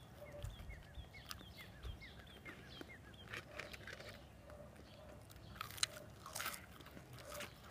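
Close-up chewing and biting of breaded chicken nuggets: soft, irregular crunches and mouth sounds, with a couple of sharper crunches toward the end.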